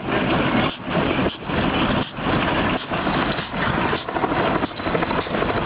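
Vehicle noise: a steady rushing rumble that drops out briefly at short, fairly regular intervals.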